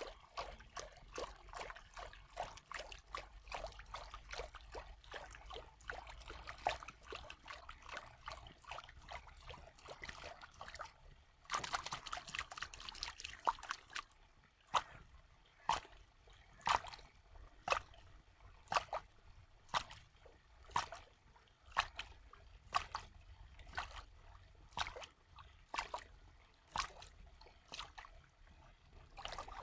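Water trickling and dribbling in many small drops. About twelve seconds in it runs more heavily for a couple of seconds. After that it falls as single drips, roughly one a second.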